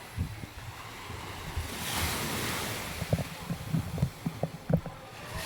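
Surf washing onto the beach, one wave swelling and breaking about two seconds in, with a run of irregular low thuds in the second half.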